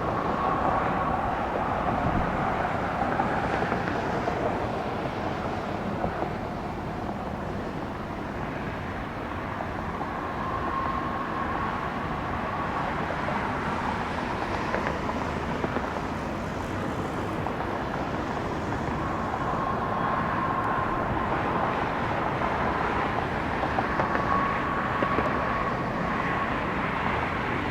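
Jet airliner engines at takeoff power during a departure: a steady rumbling roar with a faint whine that fades in and out several times.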